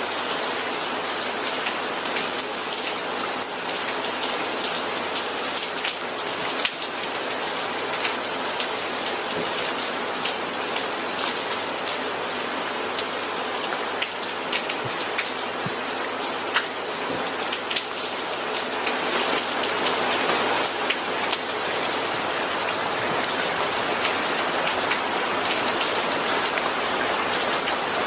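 Steady rain falling on a surface, with many individual drops ticking close by; the rain grows a little heavier about two-thirds of the way in.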